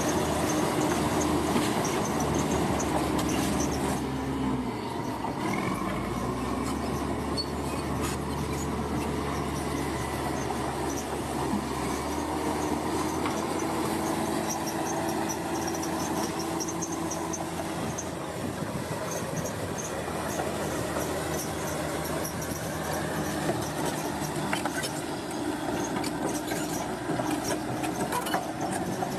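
Heavy diesel construction machinery running steadily, a low engine drone whose pitch shifts now and then.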